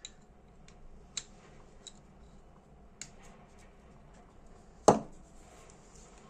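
Small sharp clicks of metal lighter parts and a small tool being handled while a part of the lighter is unscrewed, with one much louder clack about five seconds in, as of a part or tool set down on the work surface.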